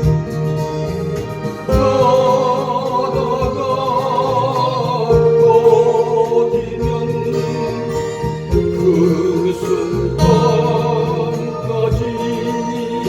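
Acoustic guitar strumming under a sung melody with vibrato.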